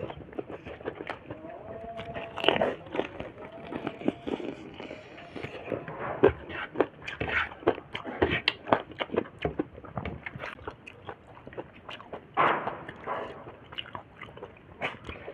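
A person chewing and biting food, with irregular wet mouth clicks and crunches coming thick and fast.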